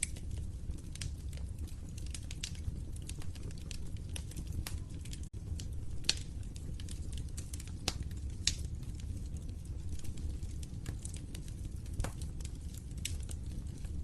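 Log fire crackling, with irregular sharp pops and snaps over a steady low rumble of the flames. The sound drops out for an instant about five seconds in.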